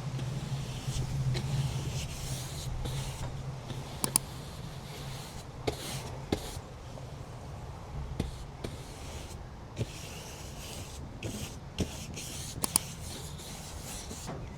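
A paintbrush sweeping a turmeric-and-alcohol dye across mixed media paper in repeated strokes, with a few sharp clicks in between.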